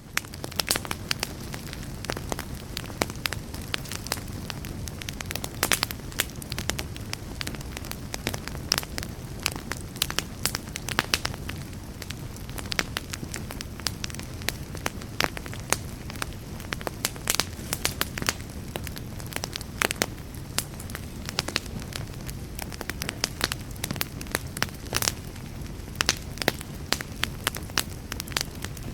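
Fire burning in a fireplace: a steady low rumble and hiss with frequent sharp crackles and pops, several a second.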